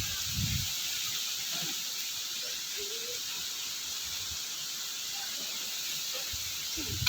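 Steady high hiss of strong wind rushing through foliage, with faint voices in the background.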